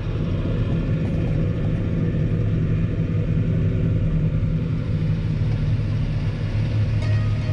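Tractor engine running steadily under load, driving a PTO snowblower at the 540E economy PTO setting.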